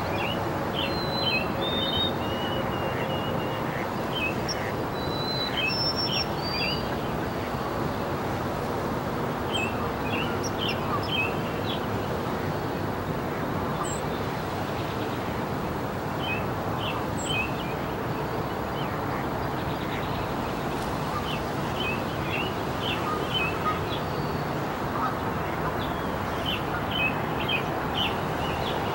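Songbirds chirping in short clusters every few seconds over a steady outdoor rushing background.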